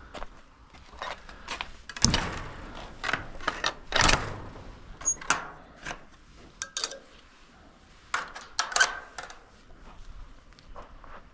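Irregular knocks and clatter of a chicken coop door and fittings being handled as the coop is closed up, with two louder bangs about two and four seconds in.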